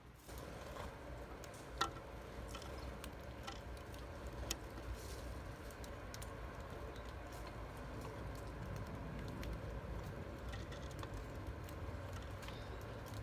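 A bird pecking and scrabbling at a seed feeder: irregular light taps and clicks, a sharper one about two seconds in and another near four and a half seconds, over a low steady rumble.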